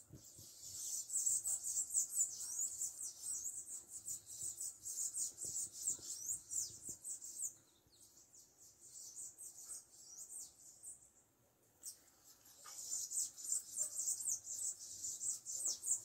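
Many small birds chirping in a rapid, high-pitched chatter, in two spells with a quieter lull around the middle.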